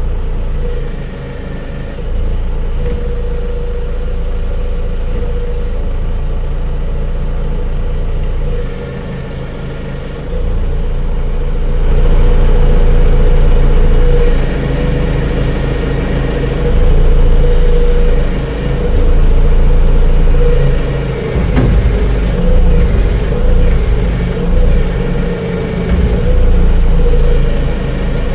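An engine running steadily, growing louder about ten seconds in and then rising and falling in level as it works.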